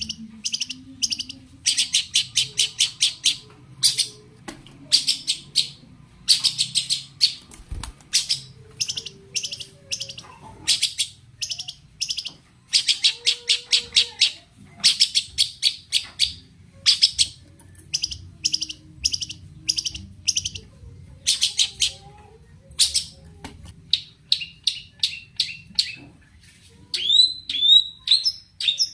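Long-tailed shrike (cendet) singing: runs of fast, harsh, scratchy chatter in bursts of about a second, with short pauses between them. Near the end the song changes to quicker, clearer notes and short downward-sweeping whistles.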